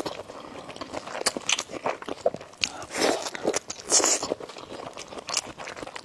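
Close-miked eating of spicy noodles: wet chewing clicks throughout, with two louder, longer slurps about three and four seconds in.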